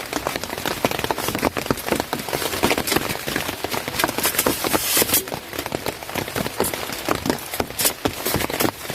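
Heavy rain pattering, a dense run of drops striking a surface, with louder hissing swells about four to five seconds in and again near the end.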